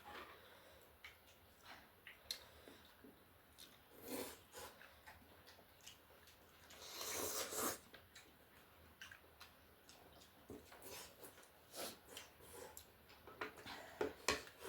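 Close-up eating sounds of a person eating noodle soup and chicken wings: soft chewing and scattered small clicks, with one longer noisy burst about seven seconds in.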